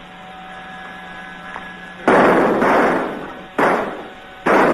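A run of loud gunshots starting about two seconds in, each trailing off in a short echo, over the faint hum and hiss of an early sound-film track.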